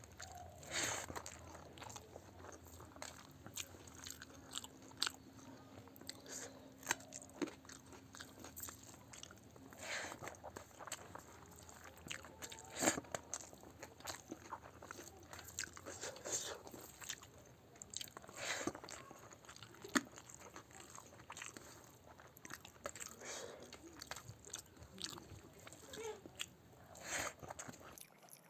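Close-miked eating: a person chewing mouthfuls of rice and curry, with irregular crisp crunches every second or two. The sharpest crunches come about halfway through and again around two-thirds of the way in.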